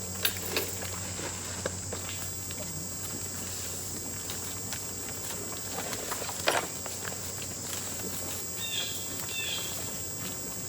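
Steady high-pitched chorus of insects in a pasture, with scattered soft knocks and rustles of footsteps in grass, the loudest about six and a half seconds in. A few short chirps come near the end.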